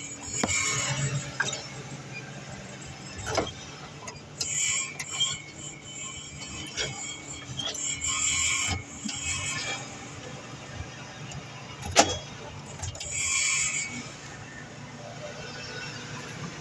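Mercury Grand Marquis V8 idling, with an intermittent metallic rattle, like two metal sheets knocking together, that comes in short spells several times, and a sharp knock about twelve seconds in. The rattle comes from a loose sheet-metal piece on the exhaust pipe, which the mechanic takes for a heat shield, not from the suspension.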